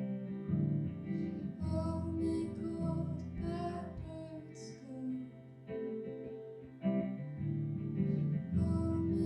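Acoustic guitar played live: slow strummed and picked chords with sustained ringing notes.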